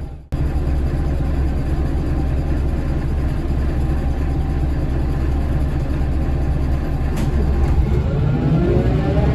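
Scania L94UB bus's DC9 five-cylinder diesel engine running with a steady low rumble, heard on board. Near the end the engine note rises as the bus accelerates.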